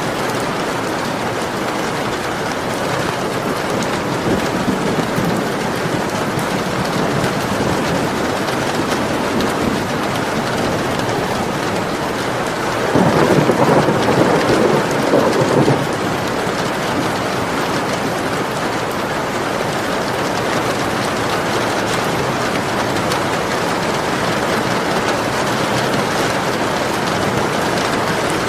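Steady rain falling. About halfway through, a roll of thunder comes in suddenly, lasts about three seconds and stops.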